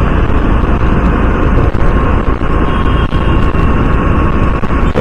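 Riding noise from a Honda CD 110 motorcycle on the move: a steady low rumble of wind on the microphone over the engine and passing traffic.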